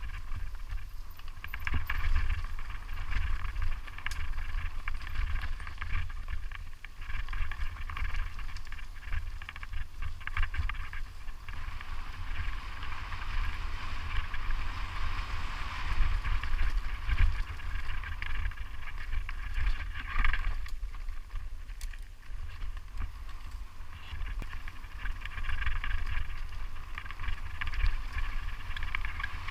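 Wind buffeting the microphone over the steady rolling and rattling of a mountain bike descending a rough trail.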